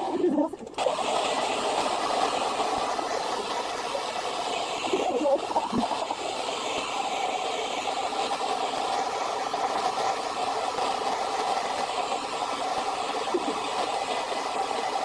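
Loud, steady rushing noise that starts abruptly just under a second in and holds even throughout.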